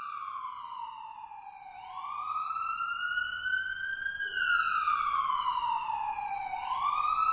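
Wailing siren, its pitch sliding slowly down and then back up about every two and a half seconds, growing louder toward the end.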